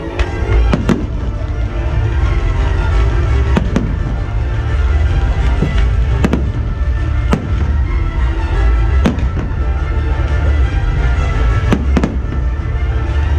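Fireworks shells bursting in a display, with sharp bangs every second or few over a continuous low rumble, while music plays.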